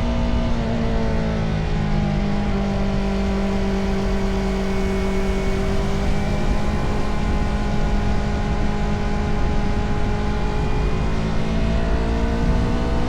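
Motorcycle engine running while riding; its pitch drops about a second in, holds steady, then rises gradually near the end as it picks up speed again. A steady low rumble runs underneath.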